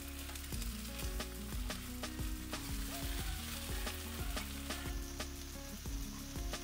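Cowa leaves sizzling as they fry in a nonstick pan while being turned over with metal tongs, with frequent sharp clicks through the steady hiss.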